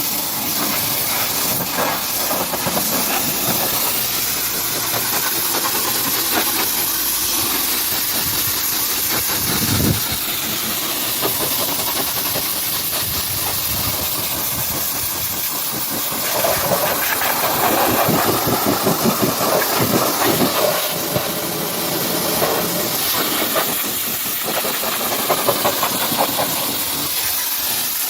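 Pressure washer spraying water, a steady hiss that grows louder and choppier for a few seconds past the middle.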